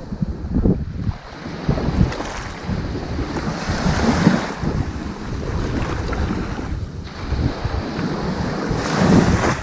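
Ocean surf washing onto a sandy beach in a steady wash of noise, swelling twice as waves break and run up, with wind rumbling on the microphone.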